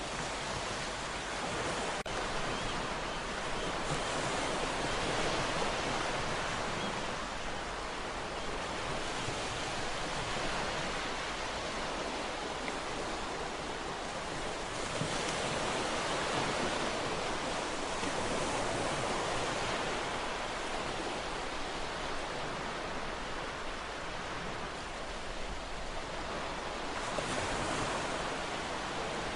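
Ocean waves breaking and washing on a shore, a steady rushing surf that swells and eases every few seconds.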